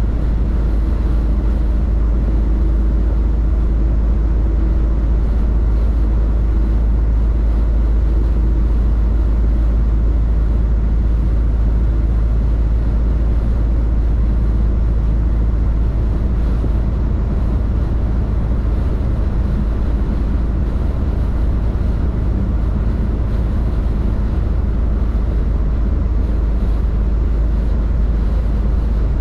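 Steady low drone of a tractor-trailer's diesel engine and road noise, heard from inside the cab while cruising, without change in pace.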